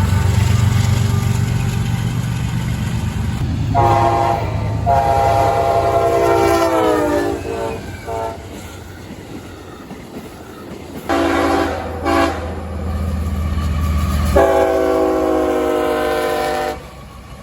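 Diesel freight locomotive rumbling past and sounding its multi-note air horn in a series of blasts: a short one, a longer one whose pitch drops near its end, two short toots, then a final long blast.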